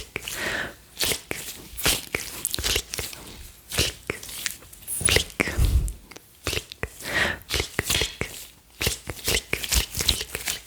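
Close-miked ASMR gloves rubbing and crinkling, mixed with 'plug and flick' mouth sounds: wet pops and clicks. The clicks come irregularly and densely.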